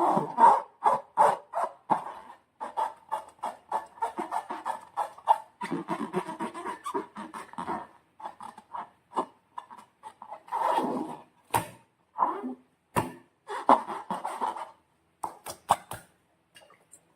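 Slime being squished and stretched by hand: a rapid run of wet squelches and sticky clicks, thinning out to a few sharp cracks and smacks in the last few seconds.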